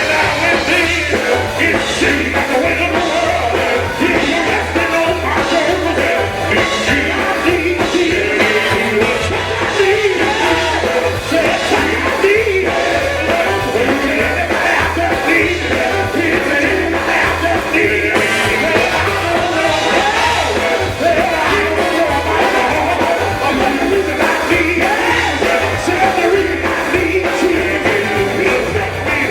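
Live gospel band music with voices singing over a steady pulsing bass line.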